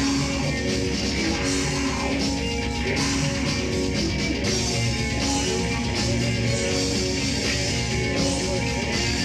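A heavy metal band playing live, with electric guitars over a fast, steady drum beat.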